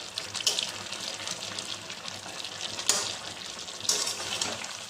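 Chicken pieces sizzling in a kadai over a high flame as a spatula stirs them, with a few sharper scrapes of the spatula against the pan. The meat is being browned down without oil (kosha).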